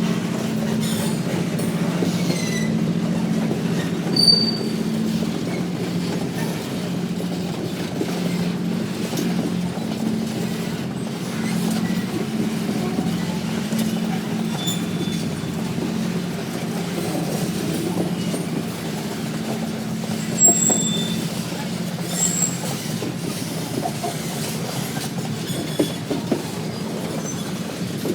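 Freight train rolling past: a steady low rumble and drone with brief high-pitched wheel squeals now and then, and a few clicks near the end.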